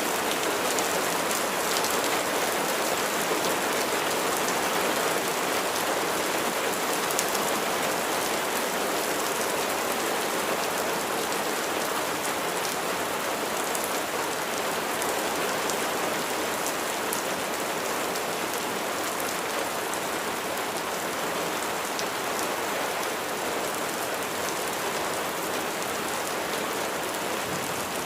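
Steady heavy rain falling on a surface, a dense even patter with scattered individual drop ticks.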